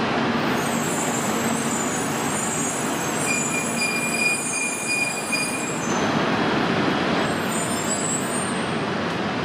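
Shinkansen train moving slowly along the platform as it is brought up to couple, with steady running noise and high-pitched squealing. One clear, steady squeal is heard from about three to five and a half seconds in.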